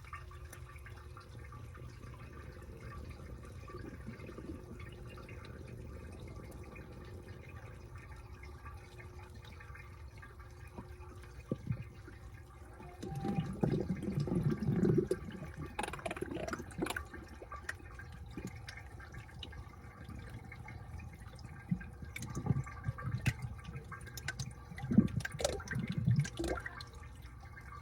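Washing machine washing a load of laundry. A steady low hum runs throughout, and water sloshes with the churning laundry in two louder spells, around the middle and again near the end.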